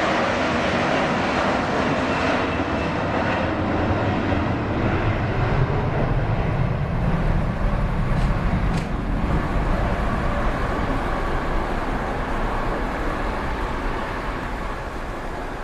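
Jet airliner passing, a steady broad rumble that swells about six to eight seconds in and then slowly fades.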